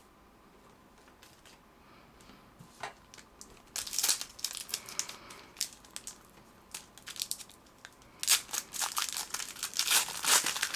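Trading card pack wrapper crinkling and tearing as it is opened by hand, in two spells: briefly about four seconds in, then louder and more continuous from about eight seconds in.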